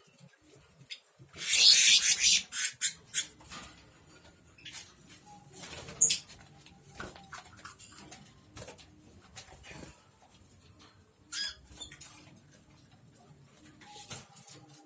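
Small caged birds, lovebirds and canaries, moving about their cages: a loud rustling burst about a second and a half in, then scattered clicks, scratches and brief squeaky calls.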